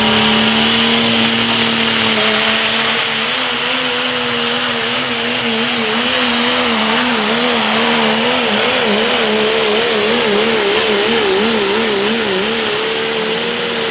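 Turbocharged pro stock diesel pulling truck at full throttle dragging the weight-transfer sled, with engine and turbo running flat out and a high turbo whistle. About three seconds in, the engine note starts wavering up and down as the truck loads and unloads on the track, and the sound cuts off suddenly at the end.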